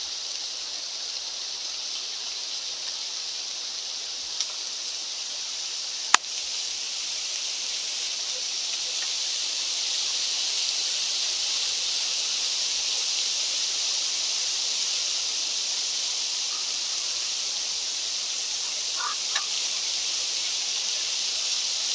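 Steady high hiss of wind, with a sharp click about six seconds in and a brief faint chirp near the end.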